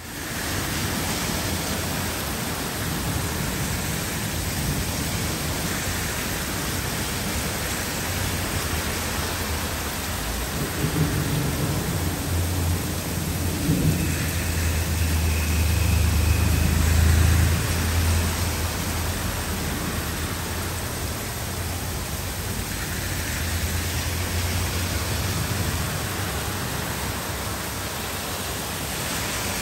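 Heavy rain falling steadily, with a long low rumble of thunder that builds about a third of the way in, peaks just past the middle and slowly dies away.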